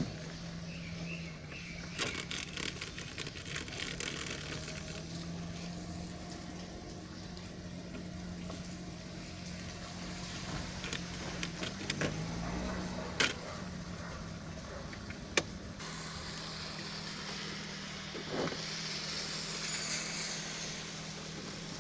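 Maruti 800 small three-cylinder engine idling steadily, with a cluster of clicks early on and two sharp knocks partway through, and a rising hiss near the end.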